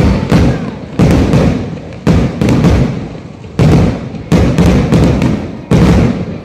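Aerial fireworks shells bursting in a rapid series of loud booms, roughly two a second, each trailing off in a rumbling echo.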